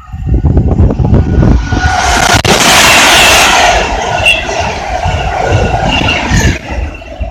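Avanti West Coast Class 390 Pendolino electric train passing at speed: a loud rush of wheels and air that swells to a peak about three seconds in, with a steady whine over it, then eases off.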